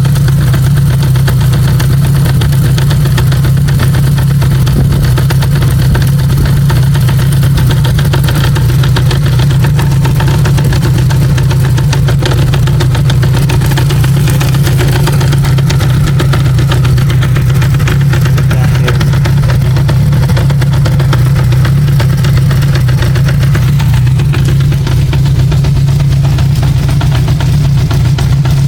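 Honda CB550K's air-cooled inline-four engine idling steadily with a knocking rattle, which the owner is trying to trace to the primary chain, the cam chain or a crank bearing.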